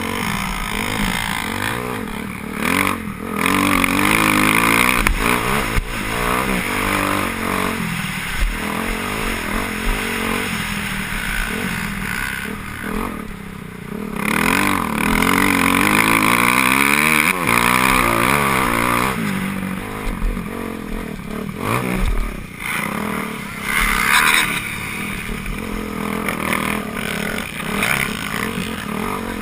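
Motocross bikes racing, their engines revving up and down through the gears as riders pass, with the sound swelling twice as bikes go by close.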